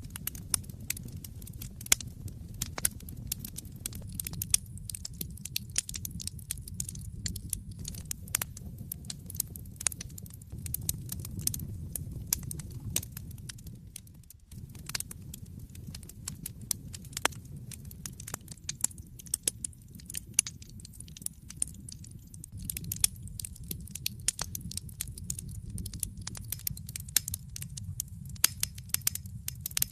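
Wood fire burning in a fireplace: irregular sharp crackles and pops over a steady low rumble of the flames. The rumble dips briefly about halfway through.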